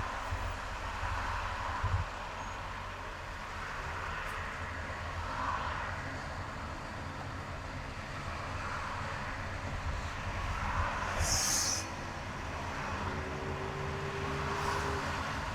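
Car driving in highway traffic: steady engine and road rumble, with a brief sharp hiss lasting about a second near the end.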